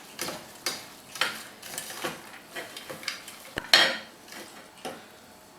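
Hands squeezing salted grated daikon radish in a colander to press out its water: a series of short squeezing sounds and light knocks against the colander, roughly one every half second, the loudest a little before four seconds in.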